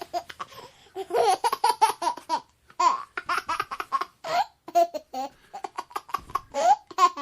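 High-pitched laughter, in several runs of quick bursts separated by short pauses.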